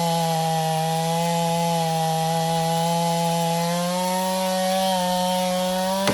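Two-stroke chainsaw held at full throttle, cutting through a large tree trunk with a steady high engine note. Right at the end the throttle is let off and the engine pitch drops away.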